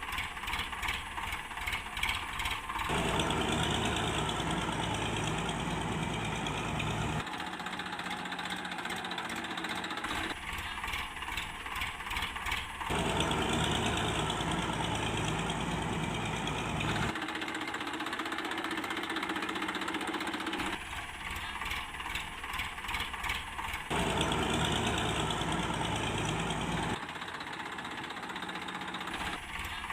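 Tractor engine running steadily, in spliced stretches whose sound changes abruptly every three to four seconds.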